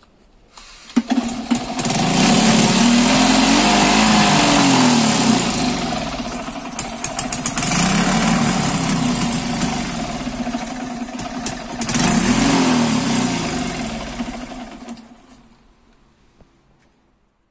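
An old scrap motorcycle engine, fed brake-cleaner spray, catches about a second in and runs loud. It revs up and back down three times, then fades away near the end.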